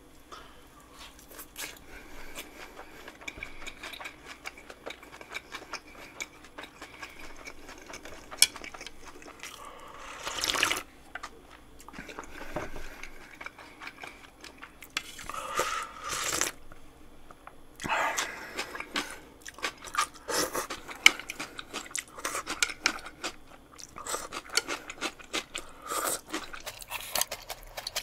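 Close-up eating sounds: biting into and chewing dumplings, with crisp crunching and small clicks throughout and a few louder bursts in the middle.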